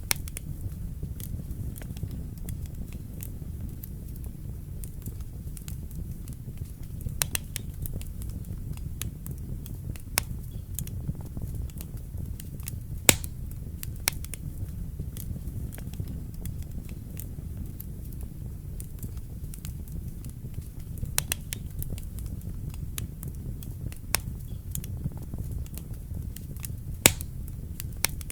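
Wood fire burning in a fireplace: a steady low rumble of flames with sharp crackles and pops at irregular intervals, a few of them much louder than the rest.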